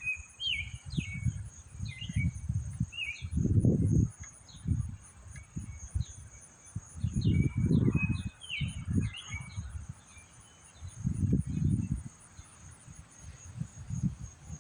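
Strong wind gusting against the microphone in uneven rumbling bursts, loudest about four, eight and twelve seconds in. Birds chirp in short repeated calls in between, over a steady high insect trill.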